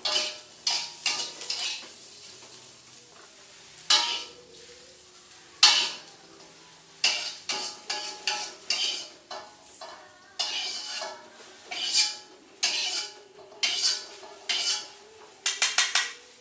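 Metal utensil stirring and clinking against a dish, in irregular clicks and scrapes, with quick runs of clinks about half a second in and again near the end.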